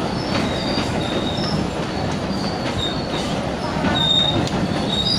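Electric multiple-unit local train running along the track, with a steady rumble from its wheels. Short high squeals from the wheels and scattered clicks from the rail joints sound through it.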